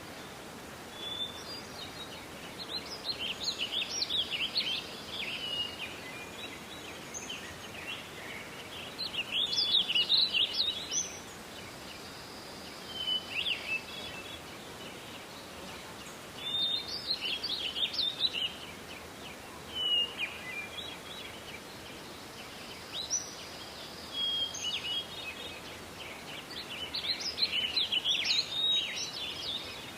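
A songbird singing in a forest: short, rapid, twittering song phrases repeated every few seconds, over a steady background hiss.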